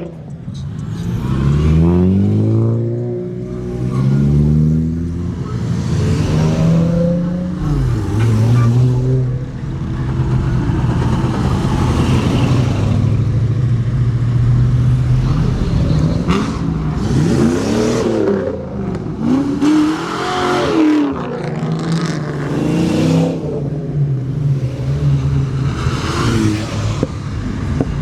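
Car engines running, revved again and again, with the engine note repeatedly climbing and dropping over a steady low hum.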